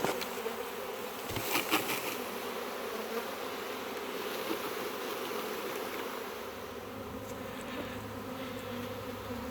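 A honey bee swarm buzzing steadily in the air around the swarm box. A couple of brief knocks come in the first two seconds.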